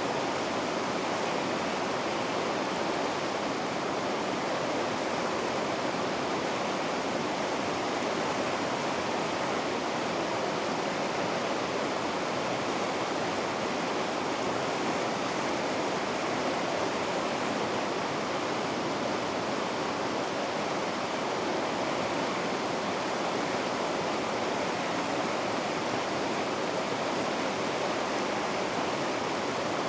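Rapids on a river rushing steadily: an even roar of water with no breaks or changes.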